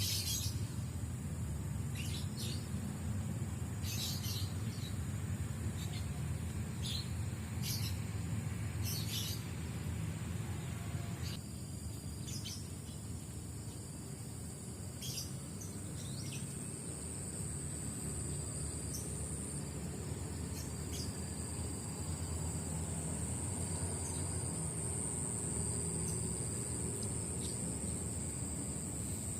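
Birds calling with short chirps, most of them in the first ten seconds or so, over a steady high-pitched insect buzz. Underneath runs a low, even rushing noise from the river.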